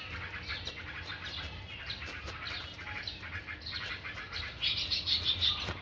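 Small songbird chirping repeatedly in a tree, a run of short high chirps that grows louder and busier near the end.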